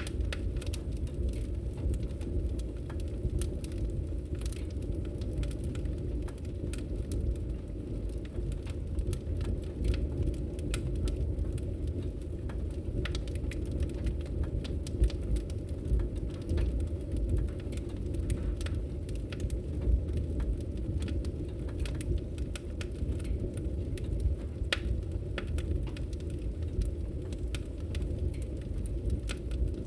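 Wood fire in a fireplace crackling, with scattered sharp pops and snaps over a steady low rumble of flame.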